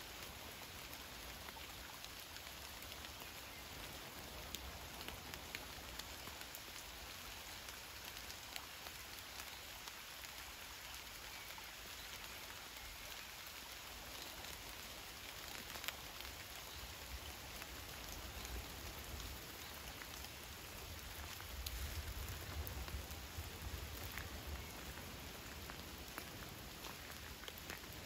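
Steady rain falling on a lake's surface, an even hiss dotted with many small drop ticks. A low rumble swells for a few seconds near the end.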